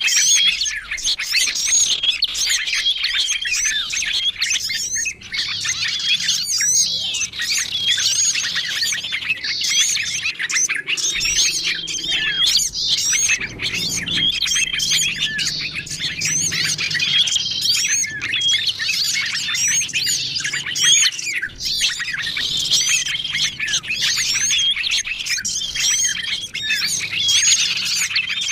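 Bird-lure recording of many small songbirds chirping and calling at once in a dense, overlapping chorus of quick high chirps and trills. A short, level whistle note comes back every few seconds.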